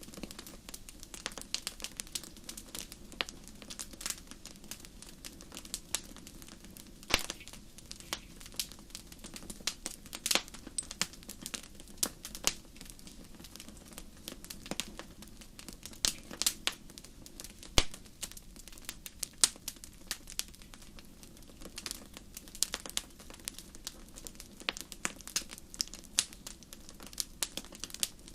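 Wood fire burning in a fireplace: irregular sharp crackles and pops over a soft steady hiss of the flames.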